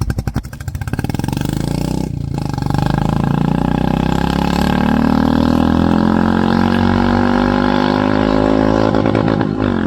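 Royal Enfield Classic 350 single-cylinder engine running through its exhaust. It starts with a slow 'dug dug' beat, is revved up about a third of the way in and held at raised revs, then drops back near the end.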